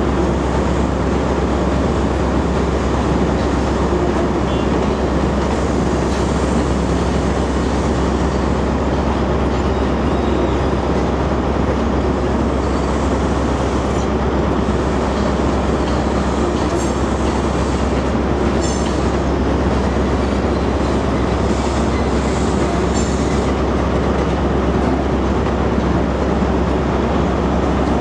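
East Coast intercity passenger train running slowly along the platform, a steady rumble of the train and its wheels. A few faint high squeaks come through in the second half.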